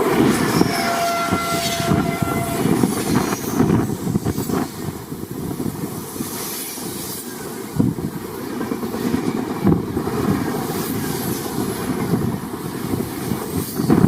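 A train running past on the line, with wheels rumbling and knocking over the rails, and a brief horn note about a second in.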